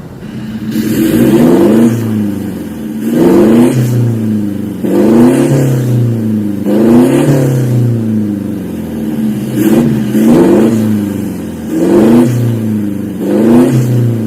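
Toyota Innova Reborn engine revved repeatedly through an aftermarket stainless full-system valvetronic exhaust: about eight sharp blips, each rising in pitch and falling back to idle.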